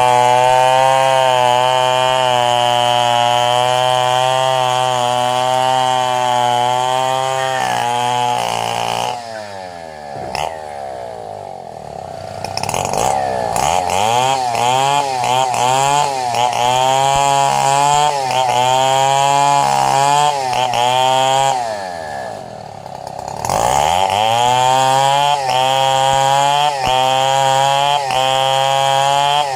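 Two-stroke chainsaw ripping durian wood into planks at full throttle, with a steady high engine note. Twice it drops to idle, about nine seconds in and again about three quarters of the way through, then revs back up to cutting speed.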